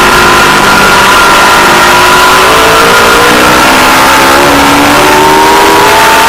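Aprilia Tuono V4 Factory's V4 engine running hard on track, its pitch climbing from about the middle as the bike accelerates, under a heavy rush of wind noise. The sound is loud and distorted because the camera's microphone is poor.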